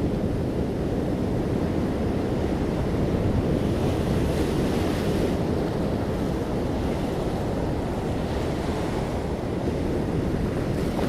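Sea waves breaking gently on a shore: a steady low rumble of surf, with a hissing wash of foam swelling about four seconds in and softer washes later.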